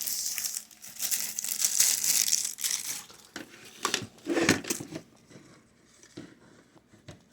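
Rustling, crinkling handling noise for about three seconds as the air conditioner's power cord is handled and plugged in, followed by a few light clicks and knocks.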